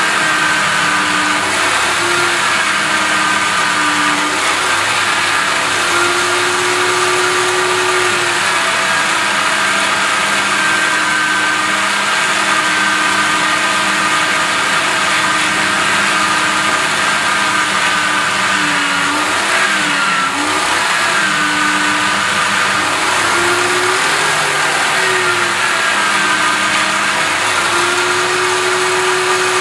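Electric grinder spinning a rotating brush against an aluminium cover, a steady motor whine over a hiss; the pitch sags briefly about two-thirds of the way through and again a little later as the work is pressed harder into the brush.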